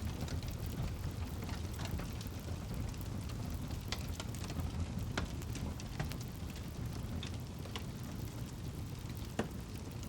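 Campfire burning: a steady low rumble of flame with irregular crackles and pops from the burning wood, the sharpest pop near the end.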